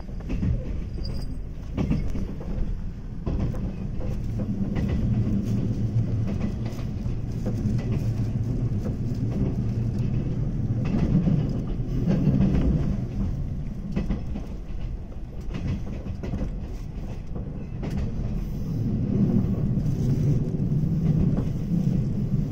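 JNR 185 series electric train running, heard from inside the passenger car: a steady low rumble of the running gear with a scatter of clicks from the wheels passing rail joints.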